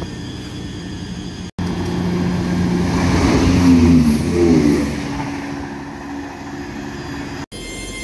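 ScotRail passenger train passing close at speed. The rush of the train builds to a peak about halfway through, with a whine that bends in pitch as it goes by, then fades. The sound is broken by two abrupt cuts, one near the start and one near the end.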